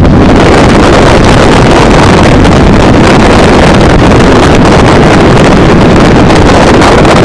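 Heavy wind buffeting on a phone microphone, loud enough to overload it, with the engine of a Stage 3 Ford Sierra Sapphire RS Cosworth running underneath.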